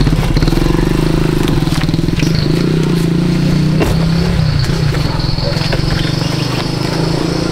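Car engine running with a steady low drone as the car pulls away.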